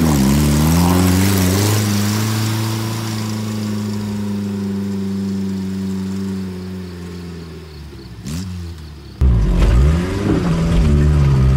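Suzuki Samurai's engine revving as the 4x4 pulls out of a muddy water hole, then running at a steady pull and slowly fading as it drives away. About nine seconds in, the sound cuts to inside the cab: the engine is louder and rumbling, revving up and down, with knocks and rattles near the end.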